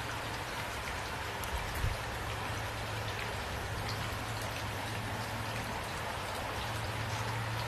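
Steady rain falling, a dense even patter with scattered individual drops ticking through it. A brief low thump comes about two seconds in.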